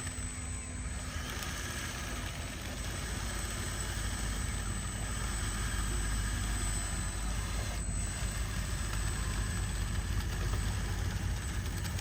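A motor running steadily with a deep rumble and a thin high whine, getting slightly louder over the first few seconds.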